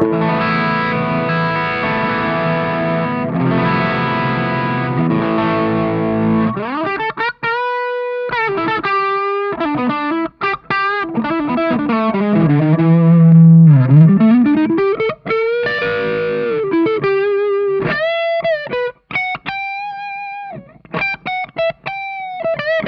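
Electric guitar played through the NUX Cerberus pedal's overdrive, a fairly clean overdrive with a mix of digital and analog character. About six seconds of strummed chords give way to single-note lead lines with string bends and slides, ending on a long held note.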